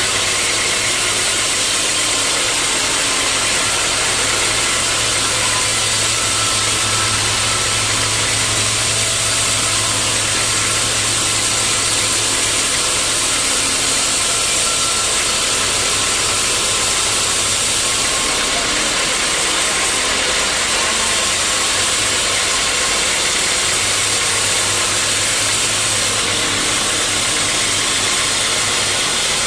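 Sawmill machinery running steadily: a constant loud mechanical noise over a low engine hum. The hum eases off for a few seconds about two-thirds of the way through.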